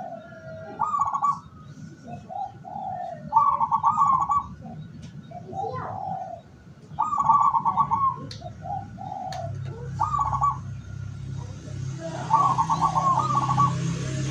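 Local zebra dove (perkutut) cooing: five trilled coo phrases, one every two to three seconds, with shorter, lower coo notes between them. A steady low hum joins in about two-thirds of the way through.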